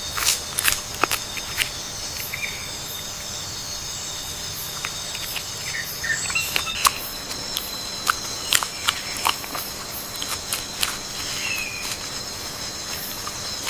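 Forest ambience: a steady chorus of crickets and other insects, broken by many short, sharp clicks and crackles and a few brief chirps.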